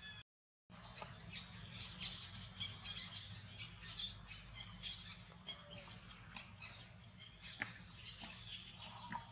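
Outdoor ambience of small birds chirping, many short high chirps at irregular intervals over a steady low hum. The sound cuts out completely for about half a second just after the start.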